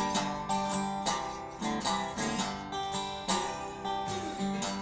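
Blues band playing an instrumental passage of a song, with no singing.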